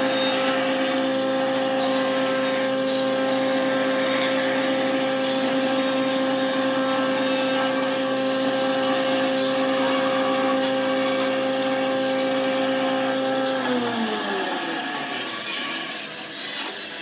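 Wood lathe running with a steady motor hum and a scraping noise from the spinning workpiece. About fourteen seconds in the motor is switched off, and its hum falls in pitch as the lathe spins down.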